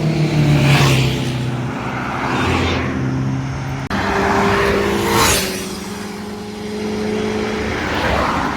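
Superbike engines passing at speed on the road, with about four rushing pass-bys over a steady engine drone. The sound breaks off abruptly about four seconds in and resumes, an edit cut.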